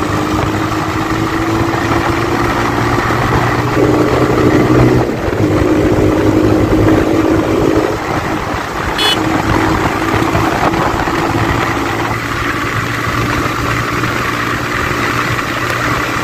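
TVS motorcycle's single-cylinder engine running under way, with wind rushing over the microphone. The engine note swells louder about four seconds in, dips briefly, then eases off after about eight seconds as the throttle is worked.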